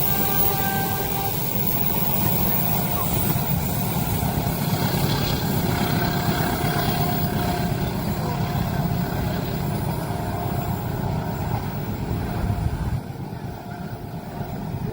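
Train passing over a level crossing: a steady, loud rumble that drops off sharply about thirteen seconds in.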